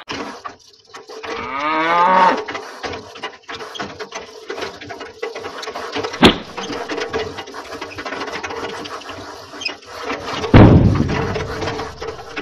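A cow mooing once, a call of about a second that rises in pitch, over the steady hum of the mini tractor's small electric motor. A sharp click comes midway, and near the end there is a loud low burst of noise.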